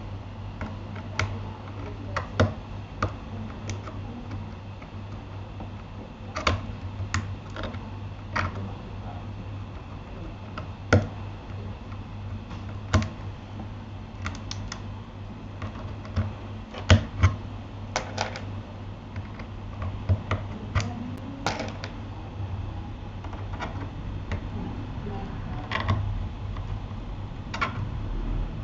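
Keystrokes on a Keychron K8 mechanical keyboard: single key presses at an irregular pace, roughly one or two a second, over a steady low hum.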